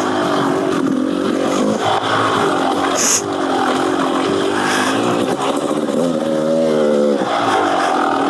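Beta Xtrainer 300 two-stroke single-cylinder dirt bike engine with an FMF Gnarly exhaust, revving up and down under the rider as the throttle is worked, its pitch rising and falling every second or two. A brief sharp tick about three seconds in.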